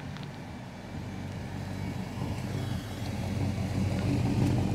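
An AMC car's engine running as the car drives up, getting steadily louder as it approaches.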